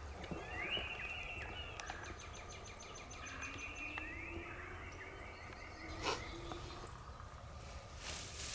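Songbirds singing: several whistled, gliding phrases and a quick trilled run of high notes in the first half, with one sharp click about six seconds in.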